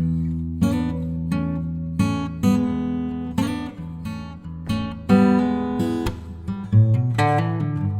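Background music: acoustic guitar chords strummed and left to ring, a new strum roughly every half second to second.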